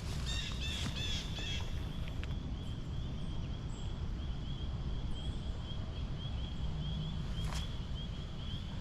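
Riding a mountain bike on a trail: a steady low rumble of wind and rolling noise. Through it runs a rapid, even series of high chirps, denser for the first second and a half, and a couple of knocks near the end.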